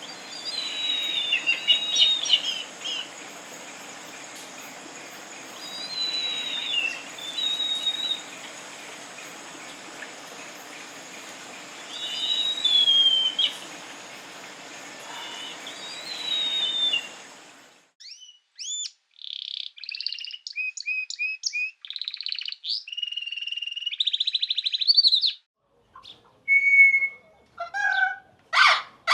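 Songbird singing a short phrase of whistled, gliding notes, repeated four times several seconds apart over a steady background hiss. About two-thirds of the way through, the recording changes abruptly to clean, rapid chirps, trills and buzzy notes from birds, with a few separate calls near the end.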